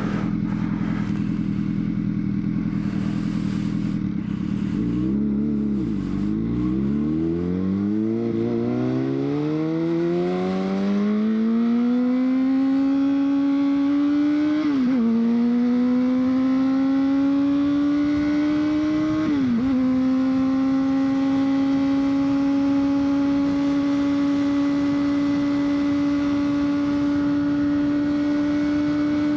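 Honda CBR600RR inline-four engine running steady, then dropping low and pulling away, revs climbing. Two brief dips mark upshifts, after which it holds a steady cruise.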